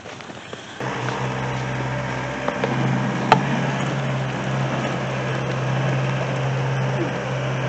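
Car running with a steady low engine hum and road noise, starting abruptly about a second in. A single sharp click sounds about three seconds in.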